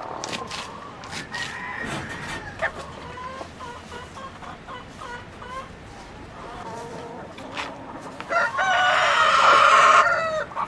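Chickens clucking and calling, then a rooster crows once, loudly, near the end for about two seconds.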